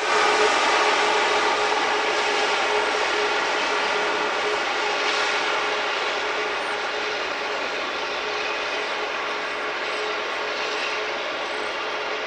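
Jet airliner's engines passing close on a landing: a steady rush of noise with a whining engine tone, coming in suddenly at the start, loudest near the beginning and slowly fading.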